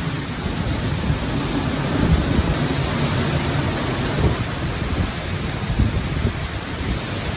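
Hurricane wind and rain: a steady rushing noise with uneven low rumbles as gusts come and go.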